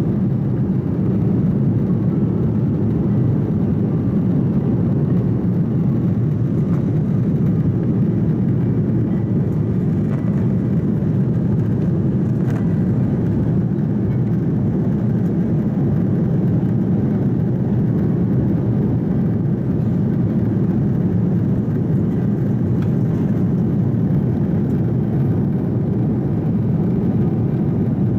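Steady cabin noise inside an Airbus A330 climbing after takeoff: an even, low rush of jet engine and airflow noise.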